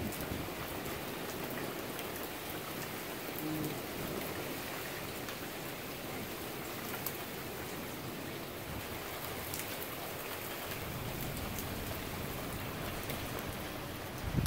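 Steady rain from a severe thunderstorm falling on surfaces, with a few faint ticks of individual drops.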